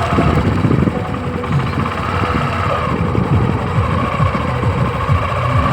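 Tractor engine running steadily, with a dense, uneven low chugging and a wavering higher tone above it.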